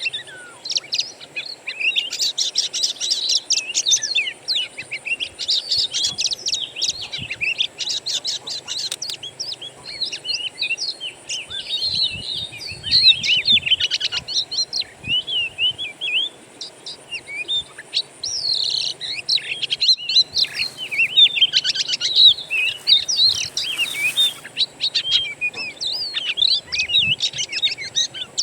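Oriental magpie-robin (kacer) song: a dense, varied run of quick chirps, trills and whistles, many notes a second, with brief pauses. It is used as a lure recording to set caged kacer singing.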